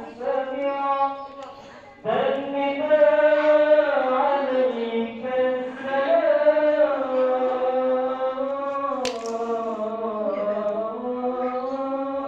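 A singing voice holding long, slowly gliding chant-like notes, most likely music on the soundtrack. There is one sharp click about nine seconds in.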